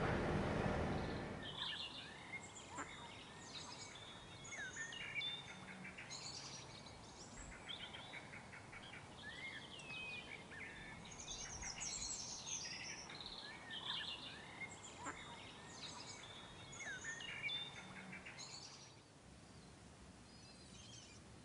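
Songbirds singing: a busy mix of chirps, trills and whistles. A low rumbling noise fades out in the first second or two, and the song stops about two seconds before the end.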